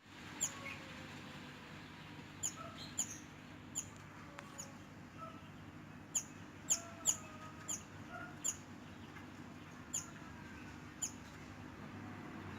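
Oriental magpie-robin (mantenan) chattering: short, sharp, high chirps, each sweeping quickly downward, about a dozen scattered irregularly over a low steady hum.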